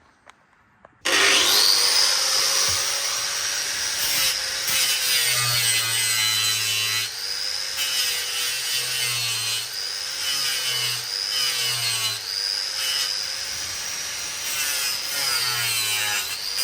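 Angle grinder with a sanding disc starting about a second in and running against wood, its whine dipping and recovering again and again as it is pressed into the planks.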